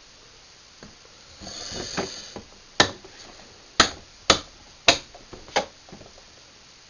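Light cover on a Craftsman garage door opener being closed by hand: a brief scraping about a second and a half in, then five sharp clicks spread over the next three seconds.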